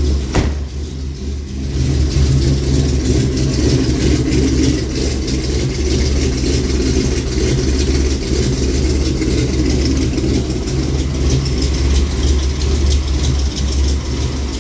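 Big-block V8 with Holley Sniper throttle-body fuel injection running steadily at idle, freshly cold-started in sub-zero cold. A single sharp click about half a second in.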